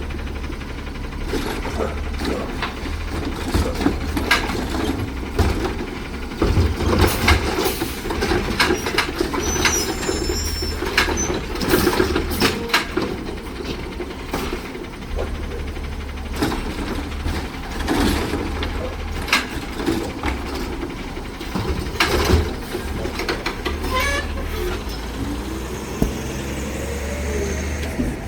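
Automated side-loader garbage truck running, with repeated metallic clanks and knocks from its lifting arm and body as carts are picked up and emptied, and a short rising squeal near the end.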